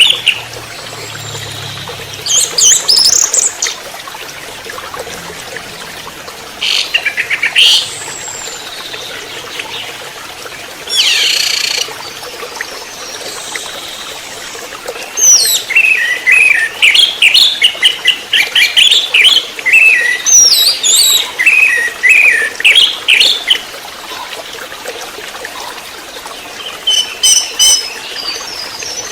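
Orange-headed thrush (anis merah) singing. Short bursts of quick, varied notes come first, then a long run of rapid, varied phrases through the middle. A few fainter notes follow near the end.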